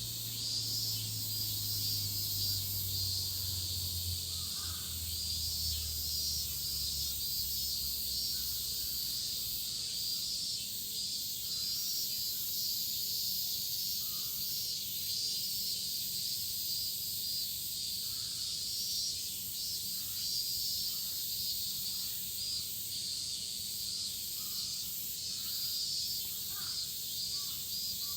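A chorus of cicadas droning steadily, with short faint bird chirps scattered through it. A low rumble underneath fades away in the first several seconds.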